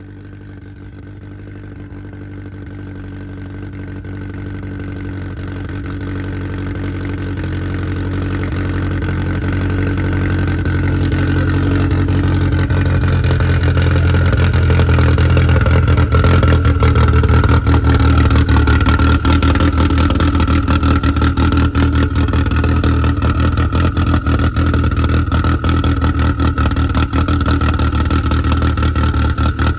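A car engine running steadily with a low, even drone, growing louder over roughly the first fifteen seconds and then holding level.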